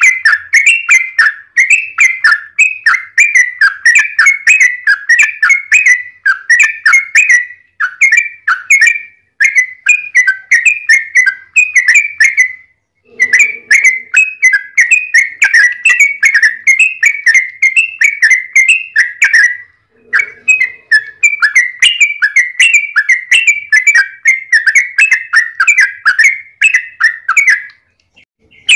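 Yellow-vented bulbul (trucukan) singing a long run of rapid chattering phrases, about three a second, in three long runs with short breaks about 13 and 20 seconds in. The song is loud.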